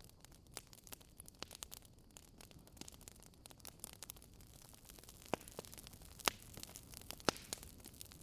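Wood fire crackling: many small snaps over a soft hiss, with a few louder pops in the second half, about a second apart.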